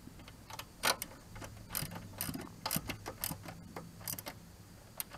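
Ratchet wrench clicking in short, irregular runs while driving in the screw that holds the airbox to the motorcycle's frame.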